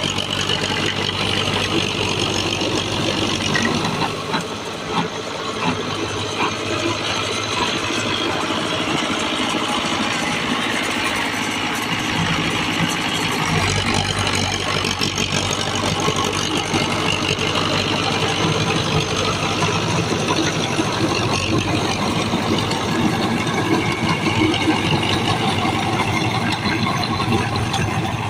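A tractor's diesel engine, an HMT engine fitted into a Sonalika 745, running steadily at idle.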